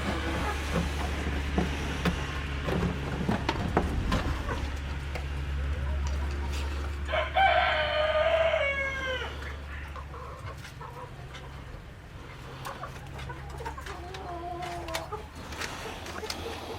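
A rooster crows once, just past the middle, a call of about two seconds that drops in pitch at the end. Chickens cluck around it, with a shorter call a little before the end, over a steady low hum.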